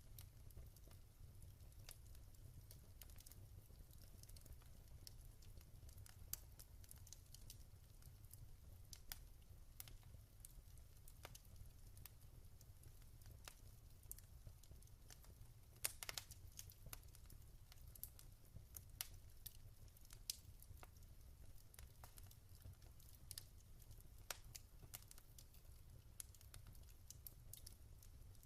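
Wood fire crackling quietly in a fireplace: scattered sharp pops and snaps over a low steady rumble, with a louder cluster of pops about halfway through.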